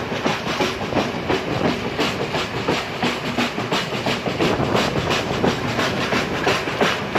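Passenger train running at speed, its wheels clicking over rail joints in a quick, uneven rhythm over a steady rumble and hiss of the carriage.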